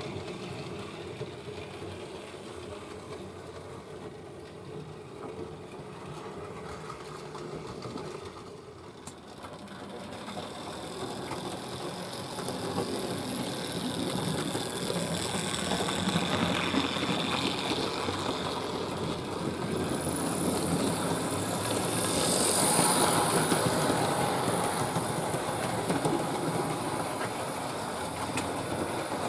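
Hornby Dublo 3-rail model tank locomotive running on its track: the steady hum of its electric motor with its wheels clattering over the rails. It grows louder as it draws near, is loudest about three-quarters of the way through, then eases a little.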